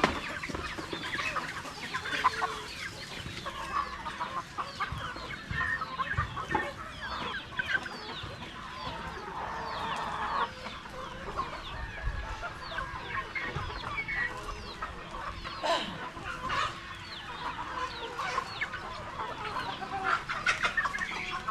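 A flock of Rhode Island Red chickens clucking and calling, with many short calls overlapping throughout.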